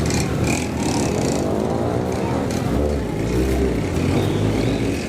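Motorcycle engine running as the bike is ridden, its pitch rising and falling with the throttle.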